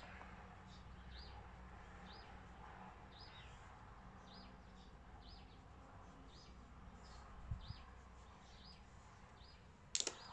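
A bird chirping faintly and steadily, about one and a half short chirps a second, over a quiet room. A few sharp clicks come near the end.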